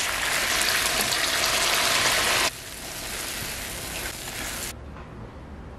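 Sausages sizzling loudly in a frying pan in a dark soy-sauce glaze. About two and a half seconds in the sound drops suddenly to a quieter sizzle of egg cooking around the sausages, and this stops shortly before the end.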